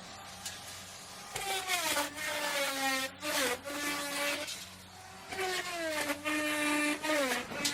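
Electric wood router cutting into wood twice, each time for about two seconds, with a rough cutting noise over the motor's whine. Each time the bit bites, the whine falls in pitch as the motor slows under load.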